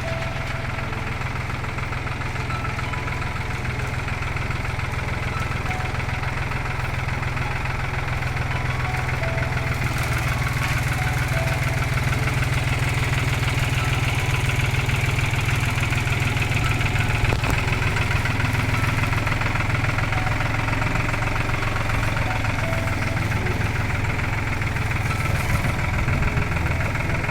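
An engine running steadily at idle, getting a little louder partway through.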